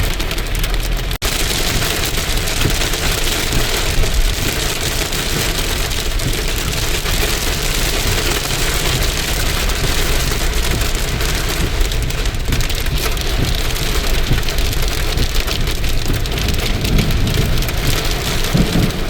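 Heavy rain falling steadily, a dense hiss of drops, with a momentary gap about a second in.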